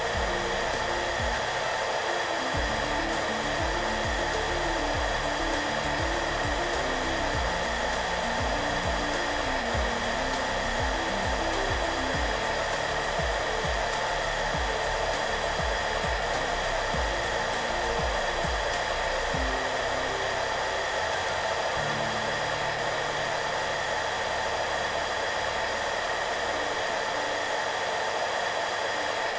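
Hairdryer running steadily, an even rushing blow with a faint steady whine in it, over soft background music carrying a slow low melody.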